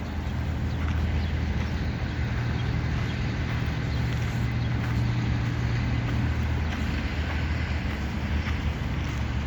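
A motor vehicle's engine running with a steady low hum, with a few light clicks over it.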